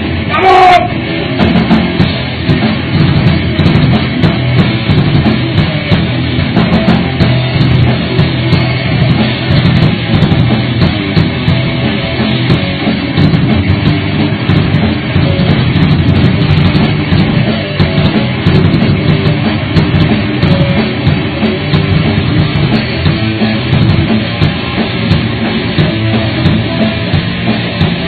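Thrash metal band playing an instrumental passage: distorted electric guitars over fast, driving drums. A guitar pitch glide falls sharply in the first second.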